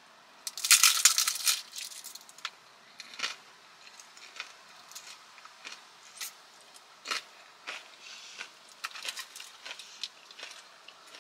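Crunching bites and chewing of a fried rolled taco close to the microphone: a dense burst of crisp crackles about half a second in, the loudest part, then scattered crunches and clicks.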